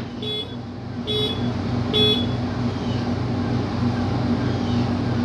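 A heavy truck engine idling with a steady pulsing throb, and three short beeps of a reverse warning alarm, less than a second apart, in the first two seconds.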